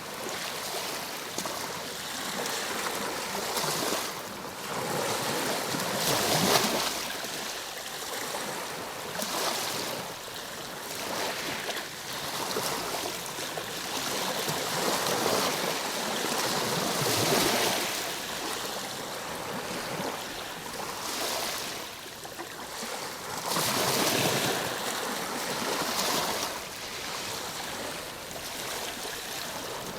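Ocean waves washing onto a shore in a continuous surf, swelling and falling back every few seconds, with a few stronger surges.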